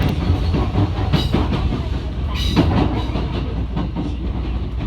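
Electric train running on the rails: a steady low rumble with sharp clacks of the wheels passing over rail joints, the clearest about a second in and again about two and a half seconds in.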